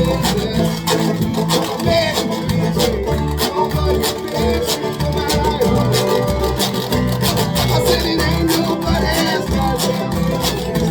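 Live folk band playing an instrumental stretch: plucked, strummed strings over bass notes and a steady beat.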